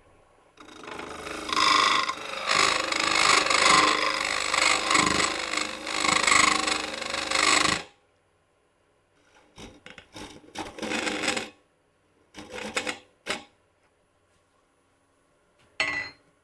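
Bowl gouge cutting into a dried magnolia bowl spinning on a wood lathe: one long cut of about seven seconds, then a few short passes of a second or less later on.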